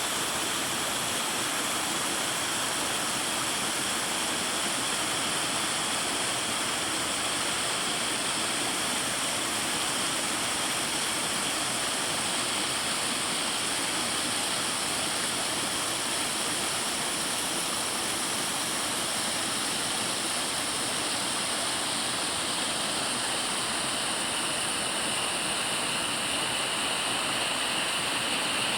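Waterfall: falling water making a dense, steady hiss that doesn't change.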